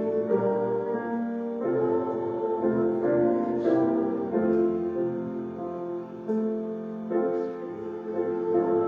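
Piano playing a slow hymn in held chords that change about once a second.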